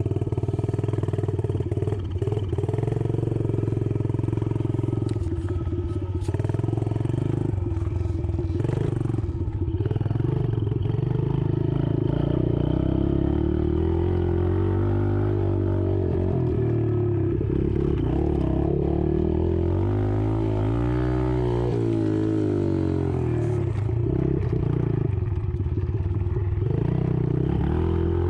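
Yamaha TT-R110 pit bike's small single-cylinder four-stroke engine riding a lap of a dirt track, its pitch rising and falling again and again as it revs up and backs off, with a few clatters and knocks in the first several seconds.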